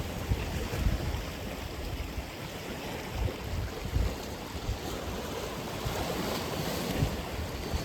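Atlantic Ocean surf washing ashore, with gusts of wind rumbling on the microphone.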